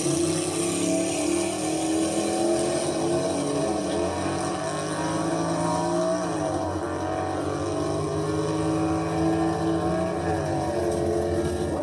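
A car engine running steadily, its pitch dipping and rising again twice.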